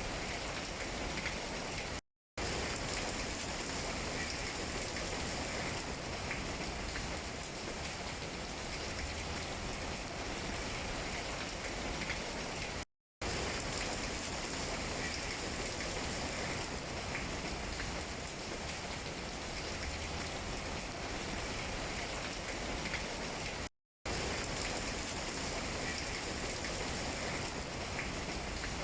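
Steady rain falling on tree leaves: an even hiss with scattered drips. The sound cuts out completely for a split second three times, about every eleven seconds.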